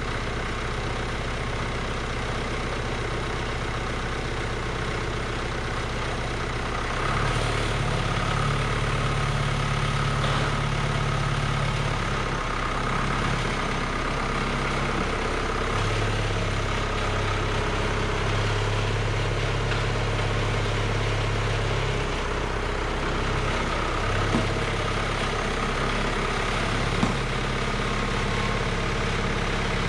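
Cockshutt 1450 tractor engine running while the tractor is driven back and forth. The engine note steps up about seven seconds in, drops back and rises again a few times, and there are two small clicks near the end.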